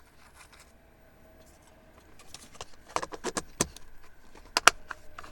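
Small objects being handled: a run of sharp clicks and knocks about three seconds in, then two louder clicks near the end.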